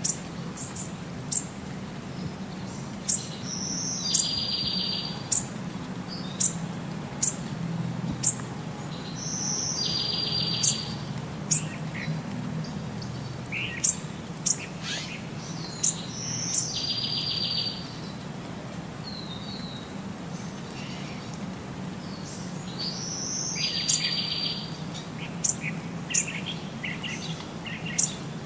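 Birds chirping: sharp high chirps about once a second, with a buzzy trilled call repeating about every six seconds, over a low steady hum.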